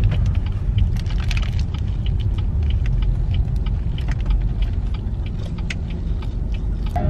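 A steady low rumble with many short, irregular light clicks and jingles over it.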